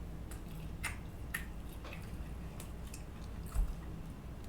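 A person chewing a mouthful of chicken sandwich close to the microphone: scattered small wet mouth clicks, with a soft thump about three and a half seconds in.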